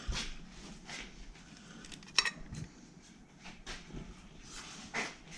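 Scattered clinks and knocks of metal tools and parts being handled, with one sharper ringing metallic clink about two seconds in.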